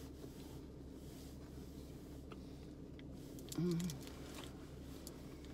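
Quiet chewing of a protein bar, with a few faint small clicks, over a steady low hum inside a car. About three and a half seconds in there is a short hummed "mm" from the eater.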